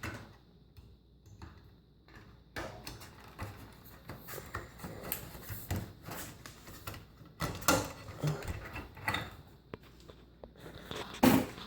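Irregular clicks, knocks and rustling from objects being handled and moved about, with no steady motor or fan sound.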